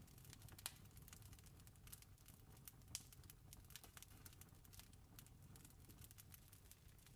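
Wood fire crackling: irregular small sharp pops, with two louder pops about half a second and three seconds in, over a low steady rumble.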